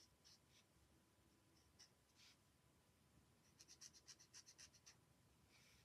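Faint scratching of a marker nib colouring on card: a few separate strokes, then a quick run of short back-and-forth strokes starting about three and a half seconds in and lasting about a second and a half.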